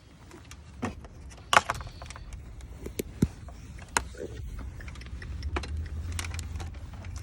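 Scattered sharp clicks and knocks of hands working in the engine bay, handling the multimeter leads and injector connectors. A low rumble grows louder from about five seconds in.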